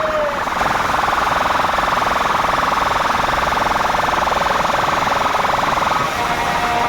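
Competition horn played at full volume through a DJ speaker system: a loud, steady, buzzy siren-like tone. A second steady pitched tone comes in about six seconds in.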